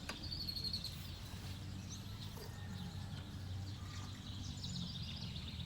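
Birds chirping in short high bursts, about half a second in and again a few seconds later, over a steady low rumble.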